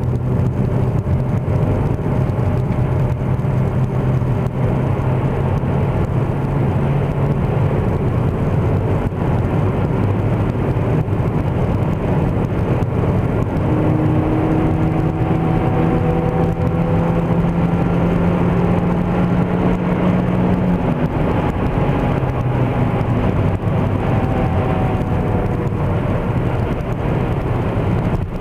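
Steady road and engine noise inside a moving Opel Astra H with the windows shut, under a constant low droning hum. About halfway through a stronger low tone and faint higher tones come in, sliding slowly in pitch, then fade. The owner cannot place the drone and rules out the tyres, which are quiet Michelin Primacy 3s.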